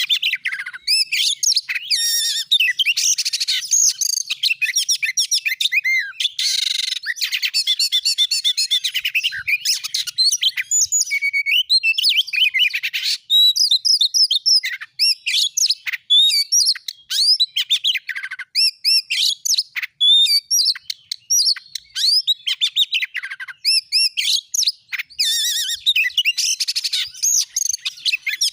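Oriental magpie-robin (kacer) in loud, continuous full song: a rapid, varied stream of whistles, chirps and quick trills with hardly a pause. This is the bird's excited territorial song, used as a lure to provoke other magpie-robins into singing.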